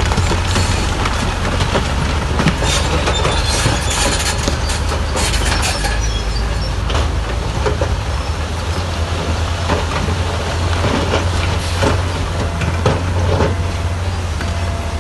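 Heavy bulldozer's diesel engine running steadily under load, with a rattling clatter of metal and stone over it and a run of sharp knocks between about three and six seconds in.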